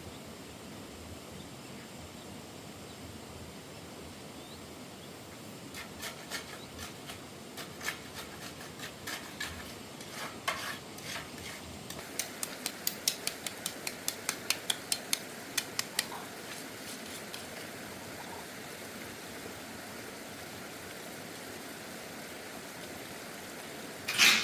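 Light metallic clinks and taps over a steady hiss. They come scattered at first, then as an even run of quick taps, about four a second for some four seconds, and there is one louder knock near the end.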